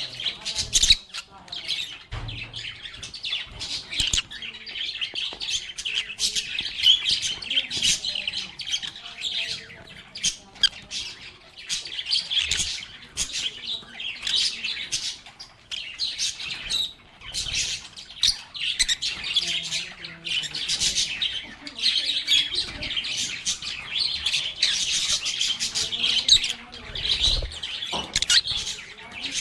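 A flock of pet lovebirds chattering nonstop, a dense mix of shrill chirps and squawks overlapping one another.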